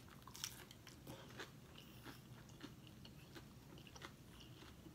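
Faint chewing of a mouthful of taco: soft, irregular small crunches and mouth clicks.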